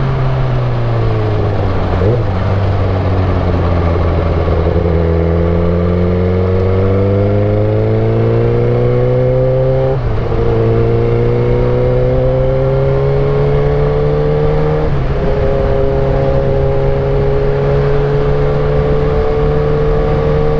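Suzuki GSX-R1000 K8 inline-four motorcycle engine under way: its pitch sinks over the first few seconds, then climbs slowly and drops abruptly at an upshift about ten seconds in and again about five seconds later, then holds steady while cruising.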